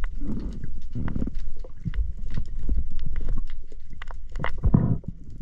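Snorkel and underwater sounds while spearfishing: a few heavy breaths through the snorkel over a constant low rumble of water movement, with many small clicks and crackles throughout.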